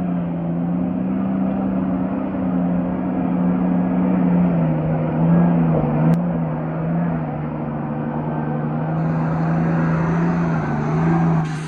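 4WD engine running steadily under load on a climb, a constant drone whose pitch dips briefly a few times, with rough tyre and track noise.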